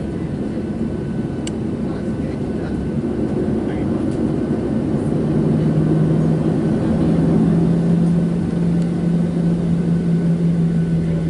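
Boeing 737-700 cabin noise: the steady rumble of its CFM56 jet engines heard from a window seat, with a steady low hum coming in about five seconds in.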